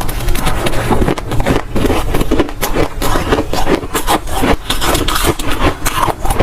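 Dry, soft freezer frost crunching loudly close to the microphone as it is bitten and chewed, in quick, repeated crunches.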